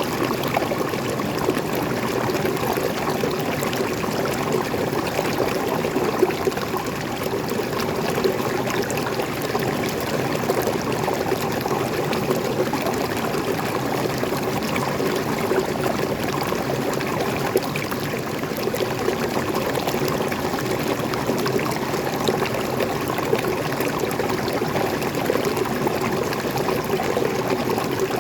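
Water flowing and splashing steadily over a small forest waterfall, a constant rush with no change.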